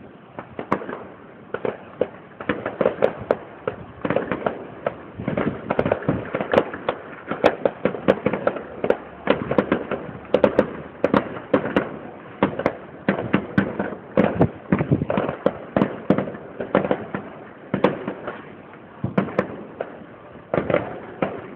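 Fireworks going off: a dense, irregular run of sharp bangs and pops, several a second, starting about half a second in and keeping on without a break.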